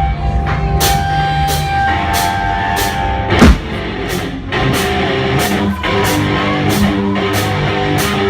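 Rock band playing live, instrumental: electric guitars holding sustained notes over a drum kit keeping a steady beat of cymbal hits, with one loud accented hit about three and a half seconds in.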